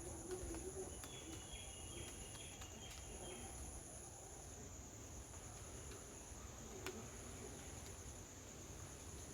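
Steady high-pitched drone of insects, with a second, higher insect trill switching on and off in stretches of a second or two. A bird adds a short series of chirps from about a second in.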